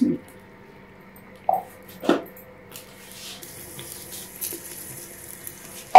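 Okra going into hot oil in a clay handi: two soft knocks about one and a half and two seconds in, then a faint steady sizzle of frying. A sharp click at the very end.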